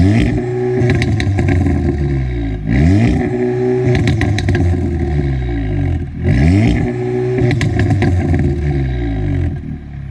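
Audi S3 8V's tuned 2.0-litre turbocharged four-cylinder engine and exhaust under hard acceleration, its pitch sweeping up sharply three times and falling back between, with sharp crackles from the exhaust mixed in.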